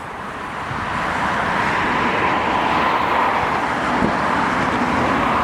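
Road traffic noise that swells over the first second or so and then holds steady, with a faint steady whine running through it.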